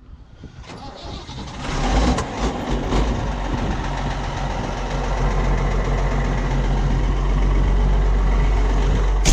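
Ford TW tractor's diesel engine starting about one and a half seconds in and settling into a steady, loud run. A short sharp knock right at the end.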